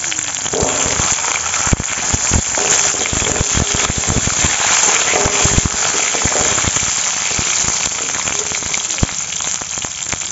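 Whole hog plums sizzling in hot vegetable oil in a kadai (wok), with a steady frying hiss and frequent sharp pops and crackles from the spluttering mustard-seed tempering. A metal spatula turns the fruit about halfway through.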